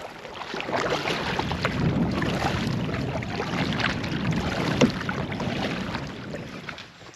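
Canoe moving through water: splashing and rushing water with scattered knocks and scrapes against the hull, dying away near the end.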